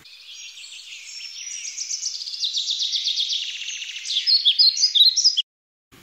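A songbird singing: a fast trill of repeated notes that grows louder, followed by a few separate short chirps, cutting off suddenly near the end.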